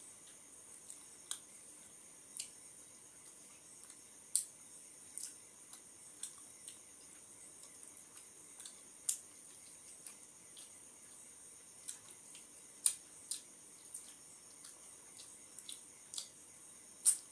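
Close-miked eating by hand: irregular wet clicks and smacks of chewing and of fingers gathering food on a plate, about one a second, a few much sharper than the rest, over a faint steady hiss.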